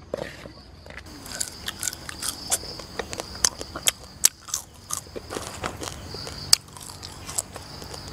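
Fried banana pieces being bitten and chewed close to the microphone: a run of short crisp clicks and crunches, with fingers picking through the fried pieces in a wicker basket.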